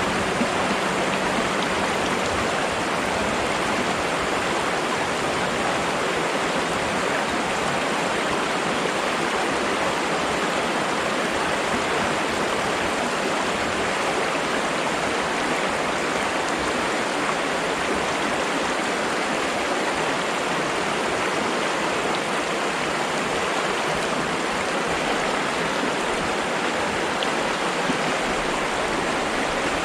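Flowing water rushing steadily and evenly, with no breaks.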